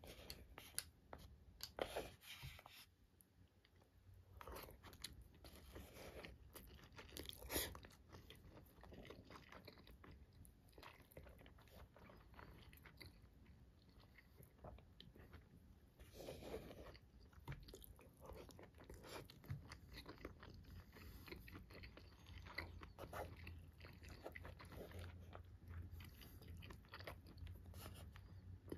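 Quiet close-up chewing of soy-marinated raw fish and rice: a steady run of small wet mouth clicks, with a few louder bursts.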